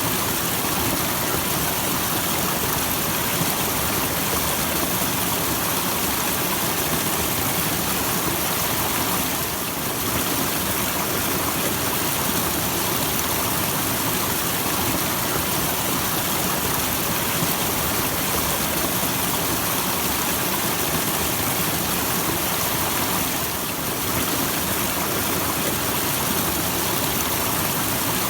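Small waterfall: a steady rush of falling water that softens briefly twice.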